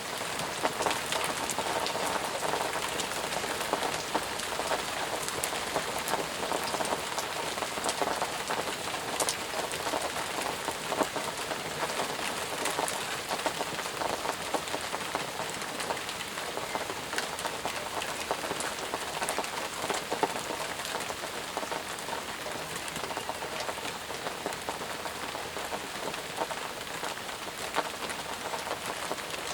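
Steady heavy rain falling, a constant hiss dotted with the patter of individual drops striking surfaces.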